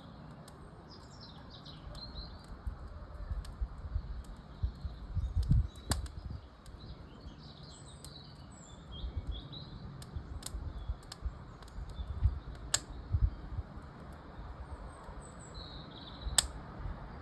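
Wood fire in a fireplace crackling with scattered sharp pops, and small birds chirping now and then in the background.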